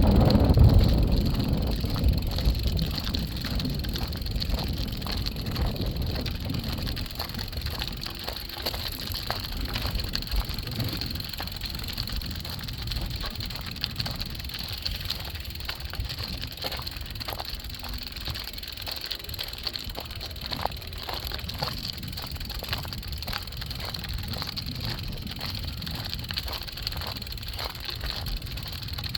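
Wind buffeting the phone's microphone, loud at first and easing off over the first several seconds, then steady outdoor background with faint footsteps at about two steps a second.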